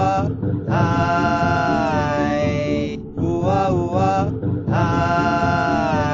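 Chanted vocal music: a voice holding long, wavering notes in phrases of a second or two with short breaks between, over a low pulsing accompaniment.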